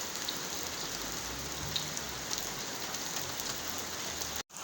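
Heavy rain falling steadily, a dense even hiss of drops striking hard surfaces. It cuts off abruptly near the end.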